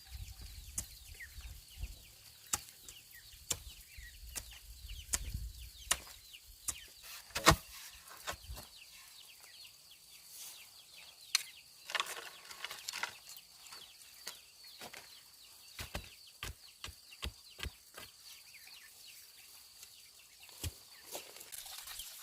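A series of irregular sharp knocks and taps, the loudest about seven and a half seconds in, over a faint steady high-pitched tone that stops near the end.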